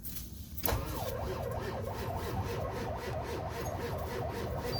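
Old Ford truck's starter cranking the cold engine over, beginning suddenly about two-thirds of a second in and going on as a steady, rapidly pulsing churn with a wavering whine.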